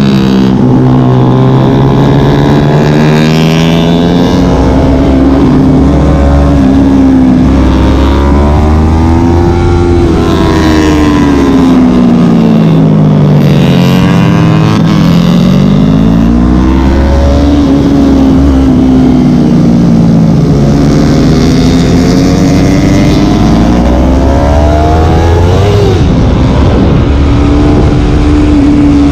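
Onboard sound of a small sport motorcycle's engine at full lap pace on a track. Its pitch climbs hard through the gears, then falls away under braking and downshifts into corners, several times over.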